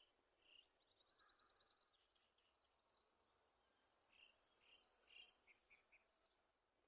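Faint birdsong: a quick trill of about ten even notes near the start, then a scattering of short chirps, the last few in a quick run.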